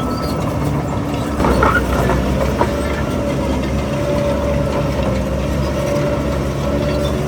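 Heavy diesel engine of earthmoving machinery running steadily, with a brief louder, rougher stretch about one and a half seconds in and a thin steady whine over it after that.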